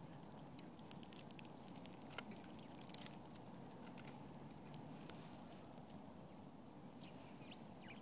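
Faint scattered ticks and short chip calls of small birds at a winter feeder, the sharpest a few seconds in, over a low steady outdoor background.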